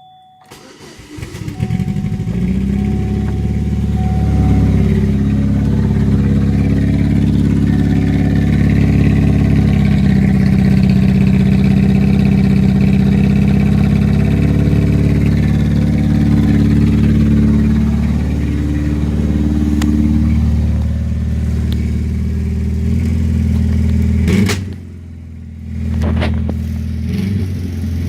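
A 2002 Chevrolet Cavalier with its muffler cut out cranks, starts and runs loud and steady on a straight-through exhaust. Near the end the engine note drops off sharply for a moment, then picks back up.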